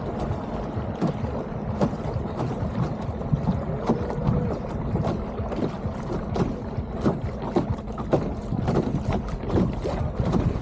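Small solar-powered electric racing boat under way: water splashing and slapping against the hull in many short sharp hits, over a low rumble with wind buffeting the microphone. A faint steady hum runs underneath.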